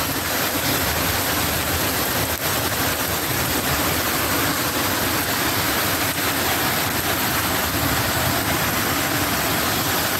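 Heavy rain pouring steadily onto waterlogged ground and puddles, with runoff water running across the yard.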